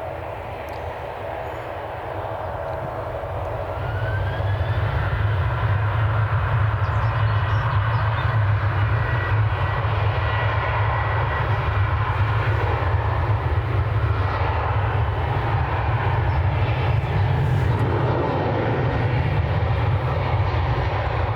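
Emirates Airbus A380's four jet engines rumbling on landing, the sound growing louder about four seconds in and then holding steady, with a brief rising whine.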